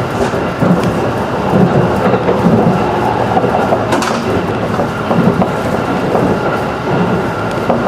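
Running sound of a JR 211 series electric train heard from inside the passenger car: a steady rumble of wheels on the rails with a faint steady whine, and one sharp click about four seconds in.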